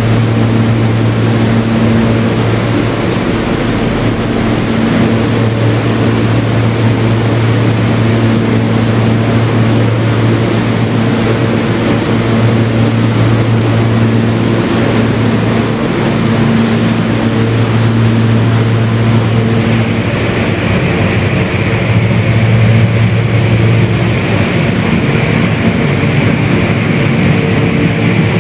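Kawasaki R160B subway car with Siemens propulsion running between stations, heard from inside the car: a steady loud rumble of wheels on rail over a low motor hum. About two-thirds through, a higher whine joins in and holds.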